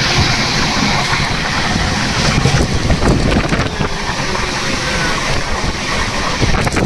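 Loud, steady wind buffeting the microphone over the running rumble of a moving train, with a few sharp clicks near the end.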